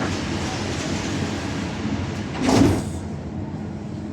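Dubai Metro carriage doors sliding shut, one short loud rush about two and a half seconds in, over the steady hum of the train interior.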